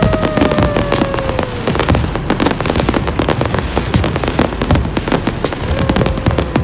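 Fireworks display: a dense, continuous crackle of many small bangs and pops, with a long falling whistle in the first couple of seconds.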